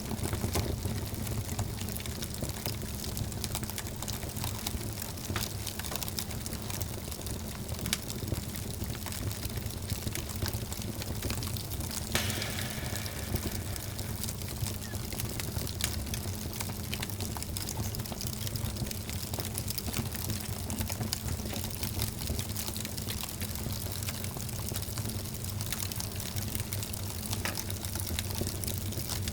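Wood fire burning in a fireplace: a steady hiss and low rumble of flames with frequent small crackles and pops, and one louder pop about twelve seconds in.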